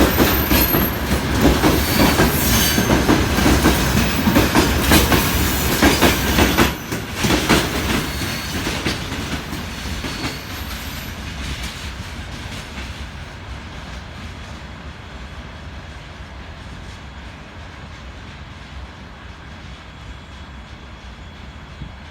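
Freight train wagons rolling past with rhythmic wheel clatter over rail joints and a few brief high wheel squeals, then the sound fades steadily as the train moves away.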